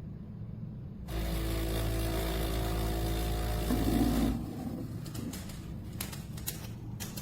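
Espresso machine running for about three seconds with a steady low buzz, then stopping abruptly, followed by a few light clicks.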